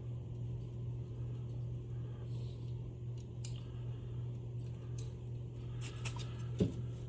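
Faint clicks and taps of small screws and a screwdriver being handled while the optical sensor board is screwed on, over a steady low hum. A sharper tap a little before the end.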